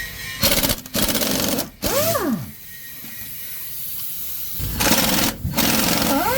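Pneumatic impact wrench running in about five short bursts of rapid hammering, under a second each, with rising and falling pitch glides around them.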